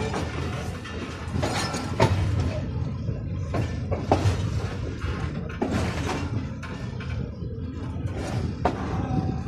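Passenger train rolling slowly: a steady low rumble with irregular metallic clanks from the wheels and couplings, roughly one a second.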